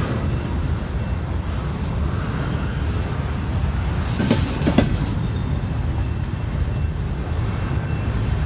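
Train cars rolling past with a steady heavy rumble. About halfway through, the wheels give a pair of sharp clicks half a second apart as they cross a rail joint.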